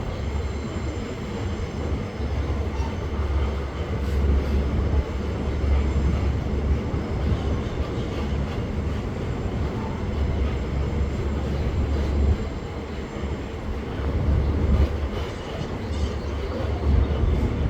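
Loaded freight train of bauxite-ore wagons rolling past, a continuous rumble of wheels on rail that swells and eases.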